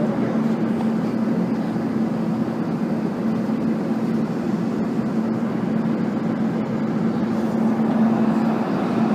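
Steady cabin noise inside an Airbus A380 airliner: an even rush of engine and air noise with a constant low hum.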